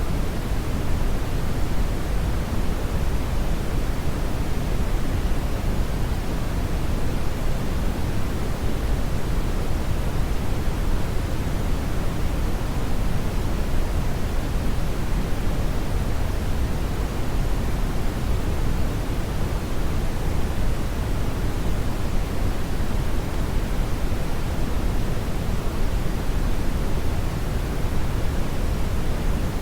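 Brown noise: a steady, strong, deep rushing hiss, heaviest in the bass and falling off toward the treble, unchanging throughout.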